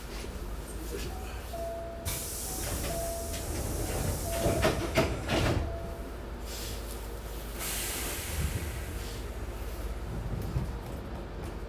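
A Hankyu 6300-series train standing at a station. Compressed air hisses out in two bursts, one about two seconds in and another near eight seconds. Between them a brief high tone sounds several times and a cluster of knocks comes around the middle, over a steady low rumble: the sounds of the train's doors and air brakes working at the stop.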